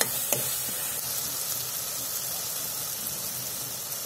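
Masala of onion, tomato and spices sizzling steadily in oil in a metal kadai while it is roasted until the oil separates. Two sharp clicks of a steel ladle against the pan come right at the start.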